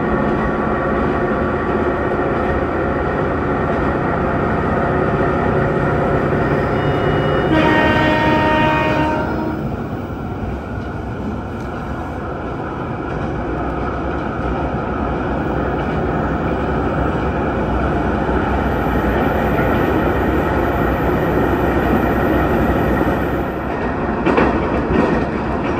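Hisatsu Orange Railway diesel railcar running along the line, heard from inside the cabin as steady engine and wheel noise. The train horn sounds once, for about two seconds, around eight seconds in.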